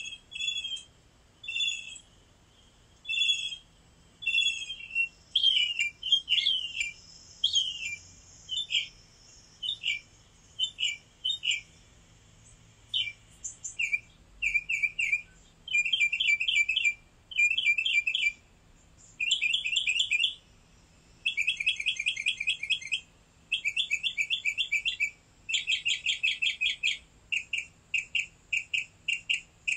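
Birds chirping: short high chirps and down-slurred notes at first, then rapid trilled phrases about a second long, repeated over and over through the second half.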